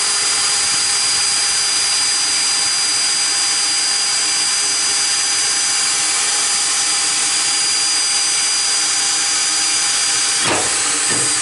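Electric drill running steadily at low speed with a constant high whine, its bit drilling out a tack weld in the sheet-metal mower hood. The motor winds down right at the end.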